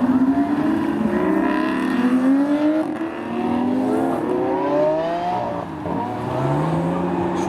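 A car's engine accelerating hard, its pitch climbing in several rising sweeps that drop back at each upshift.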